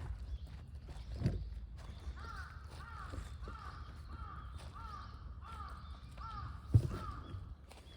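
A crow cawing in a long, evenly spaced series of about eight harsh calls. Two dull knocks cut in, one about a second in and a louder one near the end.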